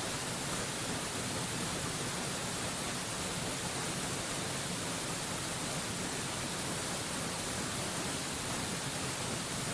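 Waterfall white noise: a steady, even rushing hiss, brightest in the treble, that never changes in level.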